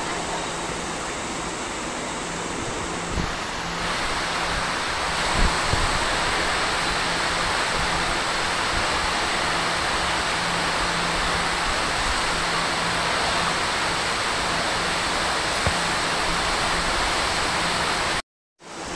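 Heavy rain pouring steadily, getting heavier about four seconds in, with a faint low hum underneath. The sound cuts off abruptly near the end.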